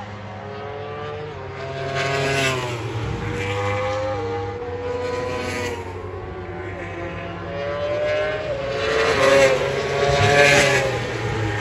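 Several racing engines passing one after another, each rising and falling in pitch as it goes by, loudest near the end.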